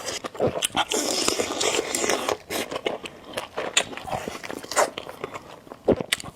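Spicy noodles being eaten close to the microphone: a hissing slurp for the first couple of seconds, then chewing with many short wet smacks and clicks.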